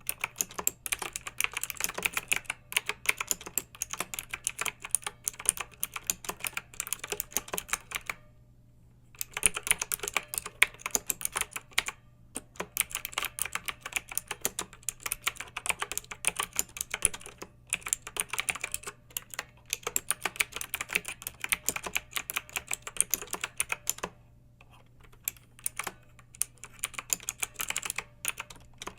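Clicky mechanical keyboard typed in fast, continuous runs of keystrokes. The typing pauses briefly twice, about eight seconds in and again near the end.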